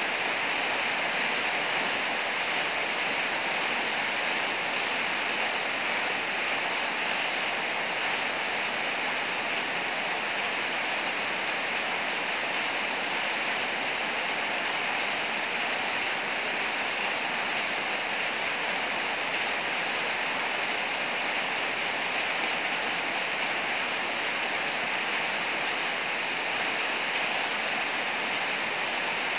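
Heavy rain falling in a steady, even downpour, with no thunder heard.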